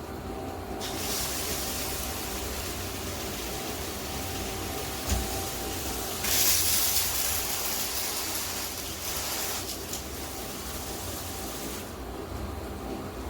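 Handheld shower head spraying water with a steady hiss. There is a sharp click about five seconds in, and just after it the spray gets louder and brighter for about a second.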